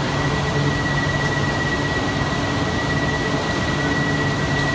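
Steady hum and hiss of a double-decker E4 series Max Shinkansen standing at the platform with its doors open, its equipment running. A thin, steady high tone starts at the outset and holds without change.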